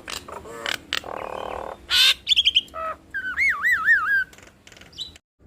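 Nias hill myna calling: a run of sharp clicks and harsh rasping notes, then a loud warbling whistle that wavers up and down for about a second. The sound cuts out briefly just before the end.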